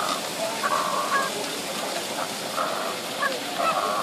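Birds giving several short, honking calls of fairly steady pitch, about five in quick succession, over a steady background hiss.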